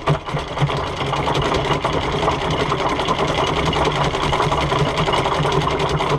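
A motor running steadily with a fast, even rattle and a low hum.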